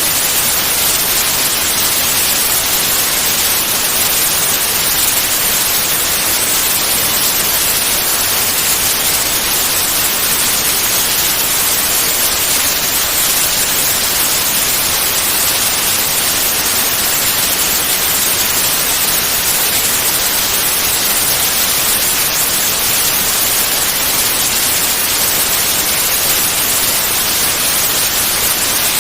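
Continuous white noise: a steady, even hiss with no changes, played as a sleep aid for babies.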